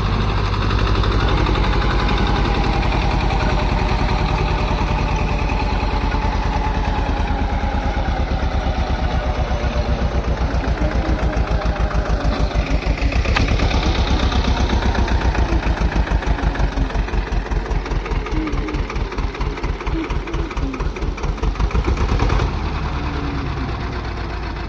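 Swaraj 724 XM Orchard tractor's two-cylinder diesel engine running with a rotavator attached, with a heavy pulsing beat. The sound eases off abruptly near the end.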